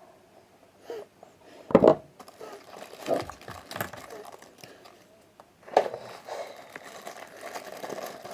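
Packaging being crinkled and torn open by hand while unboxing a wireless speaker: irregular rustling with several sharp crackling bursts, the loudest about two seconds in and another near six seconds.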